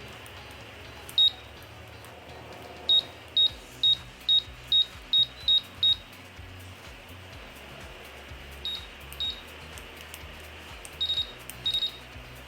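Short high beeps from a repaired Electrolux washing-machine control board as it responds to button presses. There is one beep, then a quick run of eight at about three a second, then a few fainter ones near the end. The beeping shows the board is working again.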